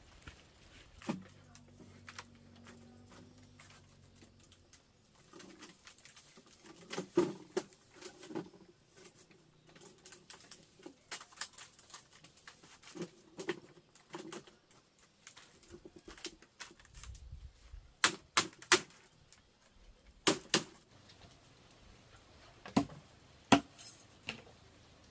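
Irregular clicks and knocks, with a few louder sharp knocks in quick clusters, like small objects being handled or tapped.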